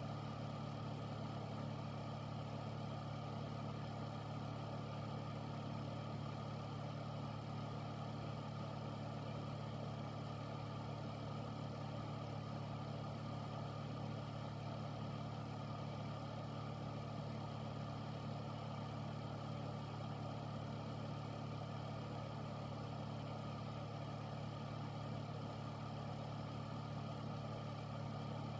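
Air filter running steadily: a low motor hum under an even rush of air, with no change in pitch or level.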